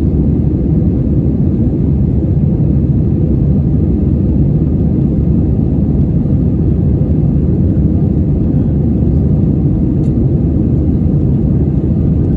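Steady low rumble of an easyJet Airbus jet airliner's engines and airflow heard from inside the passenger cabin during takeoff or climb-out.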